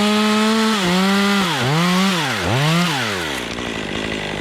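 Two-stroke chainsaw revved up to full speed and held there. Its engine note dips and climbs back twice, then drops back to idle a little past three seconds in.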